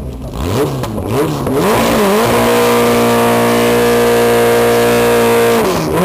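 Air-cooled VW Beetle flat-four drag engine doing a burnout: a few quick revs, then held at high revs for about three and a half seconds as the rear tyres spin and smoke, with the revs dropping near the end.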